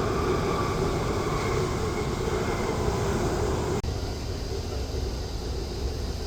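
Jet airliner engines running: a steady rumbling noise with a faint high whine over it in the first half. The sound cuts out for an instant about four seconds in.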